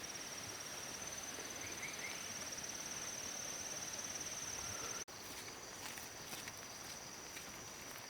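Insect trilling steadily in one high, rapidly pulsing tone over a soft outdoor hiss. The sound drops out for an instant about five seconds in and resumes a little quieter, with a few faint taps.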